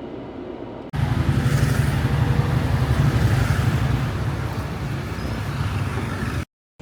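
Motor vehicle on the move: a steady low rumble of engine and road noise. It starts louder and heavier about a second in, after a quieter stretch, and cuts off abruptly near the end.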